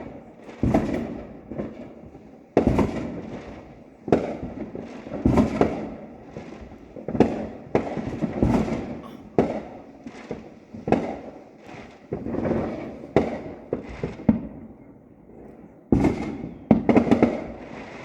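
Consumer fireworks exploding in quick succession: a loud bang about every second, each trailing off before the next.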